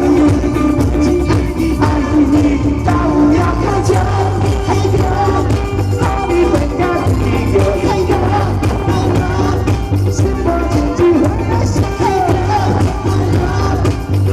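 Live band playing a pop song with a steady beat.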